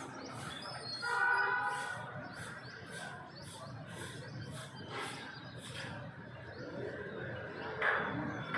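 Birds chirping: a short high note repeated about twice a second, with a longer, fuller call about a second in, over a low steady rumble. A sharp click comes near the end.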